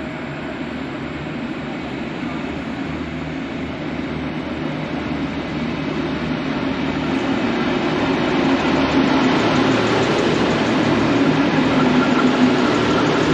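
V/Line diesel passenger train approaching the platform, its engine hum and rail noise growing steadily louder.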